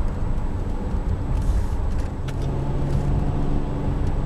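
2012 Kia Sorento SX's V6 engine and road noise while driving: a steady low rumble, joined about two seconds in by a steady engine hum.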